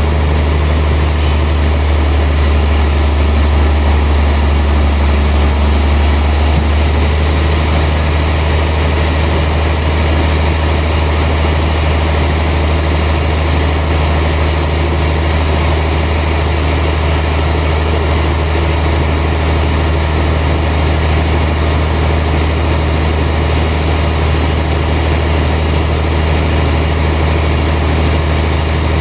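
Sawmill machinery running steadily with a loud, low engine-like drone. A faint high hiss drops away about seven seconds in.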